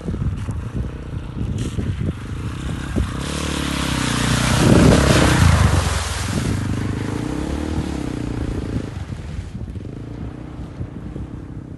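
Dirt bike engine revving as the bike rides by, pitch rising and falling with the throttle. It grows loudest about five seconds in, then runs on more steadily and fades.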